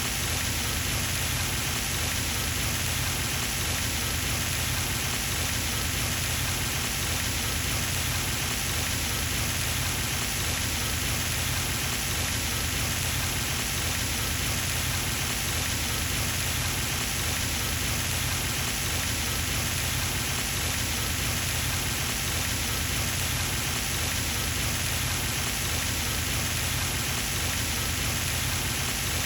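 Pond fountain's spray falling back onto the water surface, a steady, even splashing patter that does not change.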